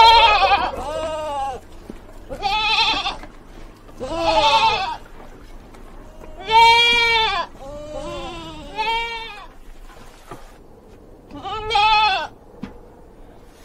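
Goat bleating over and over, about eight calls each lasting under a second, the pitch of each rising and falling.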